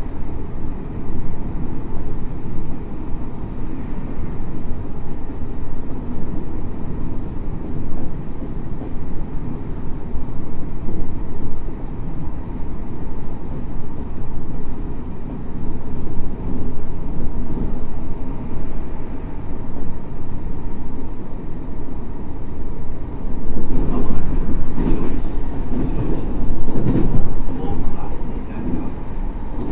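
Running sound of a JR Hokkaido 733 series electric multiple unit under way, heard from inside the car: a steady rumble of wheels on rail. From about three-quarters of the way through, the wheels click over rail joints.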